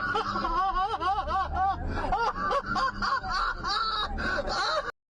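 A person laughing in quick, high-pitched bursts that rise and fall several times a second, cut off suddenly near the end.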